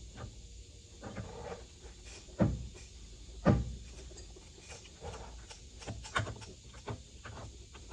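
Two loud knocks, about two and a half and three and a half seconds in, among lighter scattered clicks and clatter.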